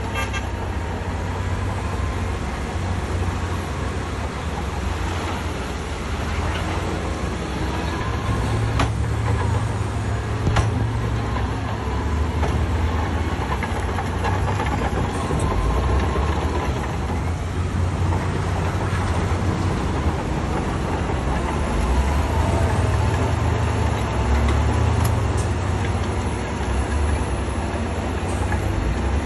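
Heavy diesel construction machinery running steadily under load, with a deep engine drone and a couple of sharp knocks about a third of the way through.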